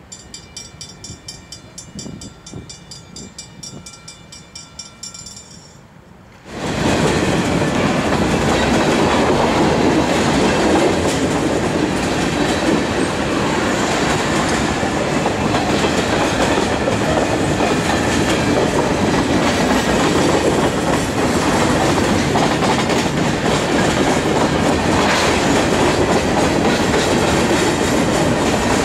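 A grade-crossing bell rings in repeated strokes for the first few seconds, then a freight train of covered hopper cars rolls past close by: a loud, steady rumble of steel wheels on rail with clickety-clack over the rail joints.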